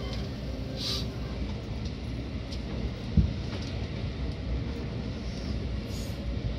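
Steady low rumble of a Seibu 6000 series electric train heard from inside the car while under way, with one sharp knock about three seconds in and a few brief faint clicks.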